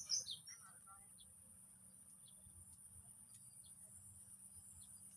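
Orange-headed thrush giving a quick burst of high chirping notes right at the start, then only a few faint scattered chirps. A steady high hiss runs underneath.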